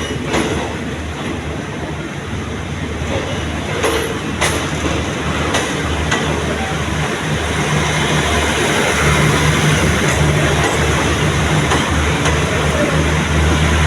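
Passenger train running on the rails: a steady rumble of wheels with a few sharp clicks in the first half, the low rumble growing louder in the second half.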